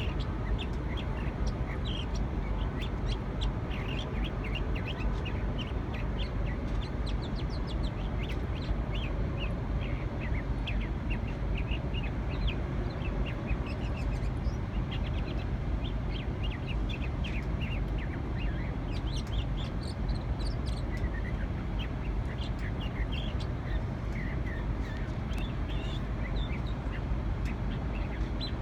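A bird singing a long, rapid run of short chirps and squeaky notes, over a steady low rumble of background noise. The song is unlike any bird the listener knows.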